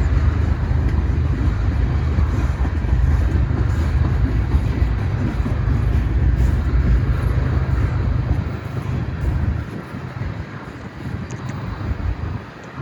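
Freight train rolling past, with a steady low rumble of wheels on the rails. The rumble eases off for a few seconds near the end, then comes back.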